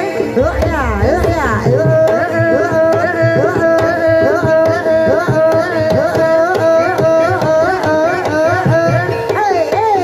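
Javanese gamelan music for a kuda kepang dance: rapid kendang hand-drum strokes under a wavering, ornamented melody that hovers around one held pitch.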